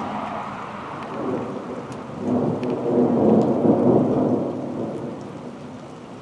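Rolling thunder from a nearby thunderstorm: a deep rumble that swells about two seconds in, peaks, then slowly dies away.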